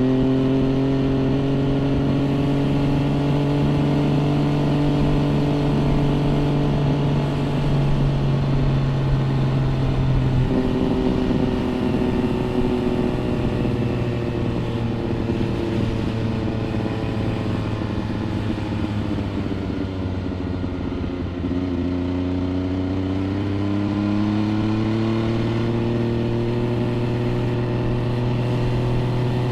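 MV Agusta Brutale 800 RR's three-cylinder engine through an aftermarket trio exhaust, heard on board while riding. The revs climb at first and hold, shift about ten seconds in, sag around twenty seconds and rise again near the end.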